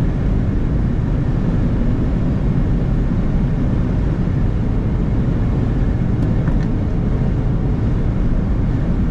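Steady rumble of road and engine noise inside a car cabin while driving at highway speed.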